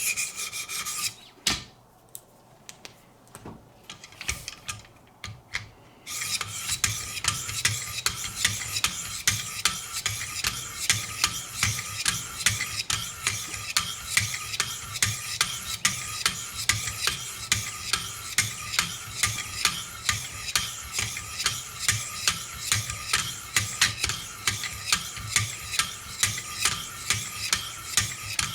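Diamond stones of a Wicked Edge guided sharpening system being stroked along a knife edge at 400 grit, a rhythmic scraping of about two strokes a second. The stroking stops for about five seconds near the start, with a few light clicks, then resumes steadily.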